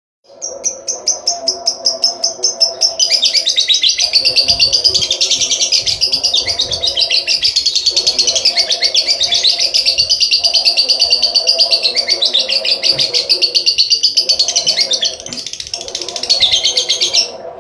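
Lovebird giving a long ngekek: an unbroken, rapid chatter of shrill, high-pitched notes that runs for about seventeen seconds, faltering briefly near the end, then stops abruptly.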